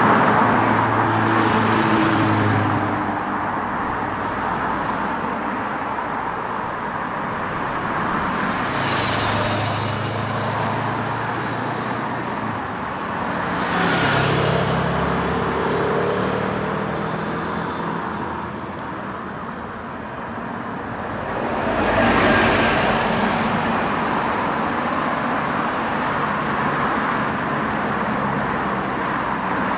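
Road traffic: a steady hiss of tyres on the road, with vehicles passing close by one after another, their engine notes swelling and fading four times, loudest about two-thirds of the way through.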